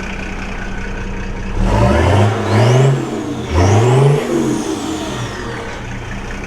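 Old diesel truck's engine pulling away: steady running, then the revs climb twice with a drop between them, a gear change, before it settles into an even cruise.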